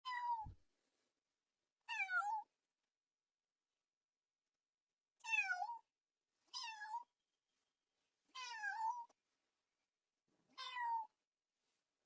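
Cat meowing: six short meows, each dipping then rising in pitch, spaced one to three seconds apart with dead silence between them.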